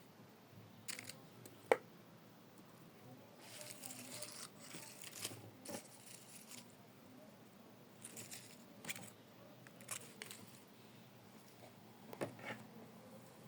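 Irregular handling noises: short rustling and crinkling spells with scattered sharp clicks, the loudest click about two seconds in.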